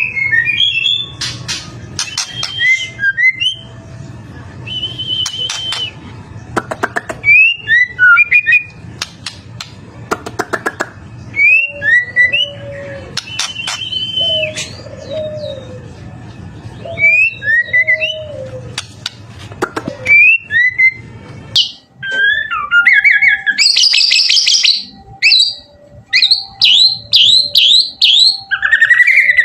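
White-rumped shama (murai batu) singing: a run of loud, varied whistled phrases with sliding notes, dropped low notes and sharp clicks, broken by short pauses. About three quarters of the way through the recording changes to a denser stretch of quick rising chirps.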